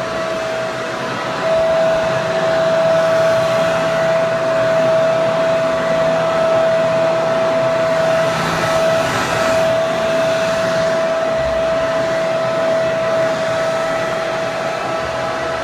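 Hair dryer running steadily: a rushing blow of air with a steady motor whine, getting a little louder about a second and a half in.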